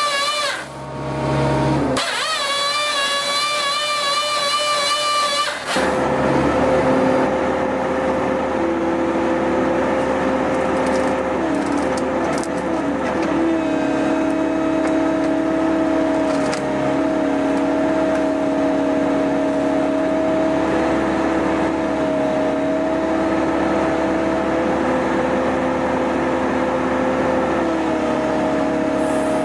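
Excavator-mounted firewood processor at work: the diesel engine and hydraulics run with a steady pitched whine over a rough machine noise, and the sound changes abruptly a few times in the first six seconds.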